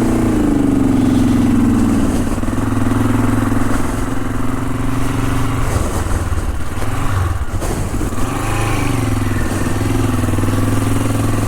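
Honda CL450 parallel-twin engine running under way on a gravel trail, its note dropping over the first couple of seconds, then holding steady, with a dip and rise again near the end.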